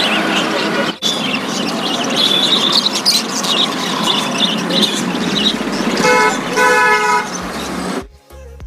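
Busy road traffic noise with a vehicle horn honking twice in quick succession about six seconds in. The sound cuts off abruptly near the end.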